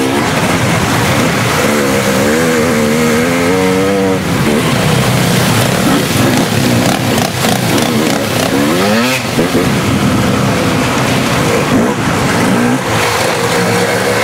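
Dirt bike engine running under throttle, its pitch rising and falling several times as it revs up and eases off.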